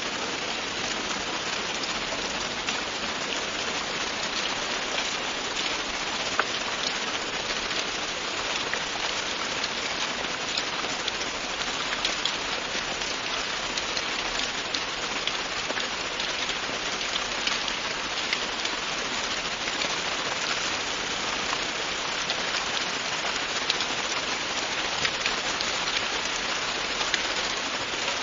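Steady, even rain falling, a dense hiss with fine, crisp drop ticks hitting a surface throughout.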